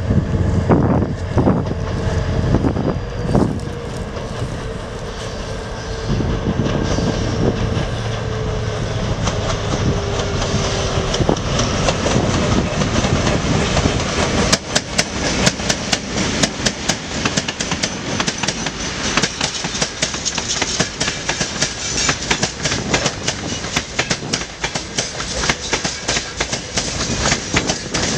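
Freight train passing close by: first the locomotive's steady engine tone, which sinks slightly in pitch as it goes by, with wind buffeting the microphone. Then a long string of loaded coal wagons rattles past with rapid clickety-clack of wheels over the rail joints.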